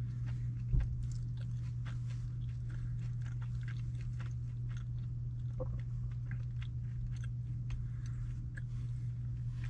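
Close-up chewing and eating sounds of a person eating orange chicken from a plastic bowl with a fork: irregular small clicks and crackles, over a steady low hum inside the car cabin. One louder thump about a second in.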